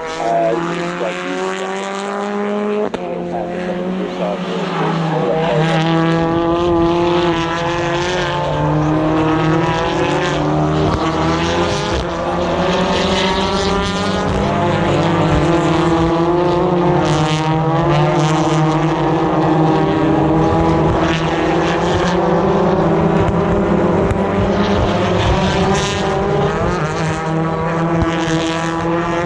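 British Touring Car Championship race cars, 2.0-litre turbocharged four-cylinder engines, running at racing speed past the track side. Several engine notes overlap and rise and fall in pitch as the cars brake and accelerate. The sound builds a few seconds in and then stays loud.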